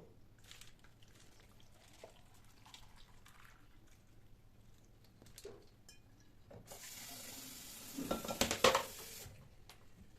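Kitchen tap turned on and water running into the sink for about two and a half seconds, with a few loud knocks and splashes of something being rinsed or handled under the stream; quieter handling noises before it.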